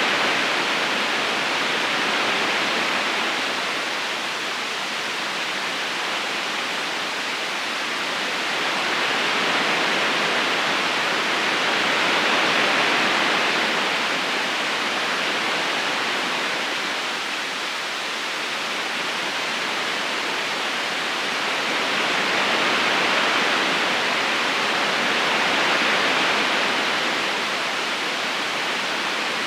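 River current flowing steadily, a constant rushing of water that swells and eases slowly every few seconds.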